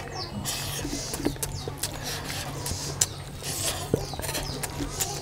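Close-up mouth sounds of a man chewing a mouthful of rice and curry eaten by hand: wet chewing and lip-smacking, a quick run of sharp wet clicks, over a low steady hum.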